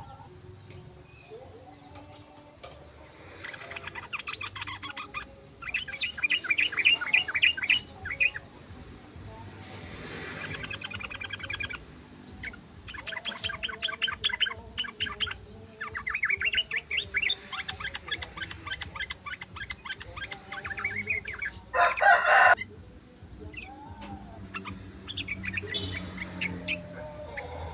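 Yellow-vented bulbuls chattering in bouts of rapid trilled notes, each bout lasting a second or two with short gaps between. Near the end comes a brief, louder, rougher burst.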